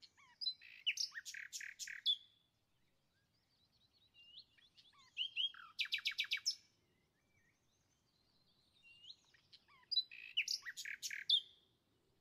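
A small songbird singing: a short phrase of chirps and rapid high notes, given three times about five seconds apart.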